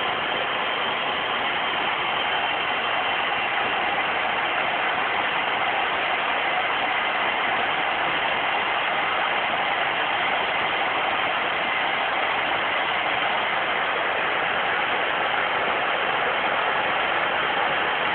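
Rowenta Compact Force Cyclonic vacuum cleaner running steadily, its motor and airflow making an even, unbroken rushing noise.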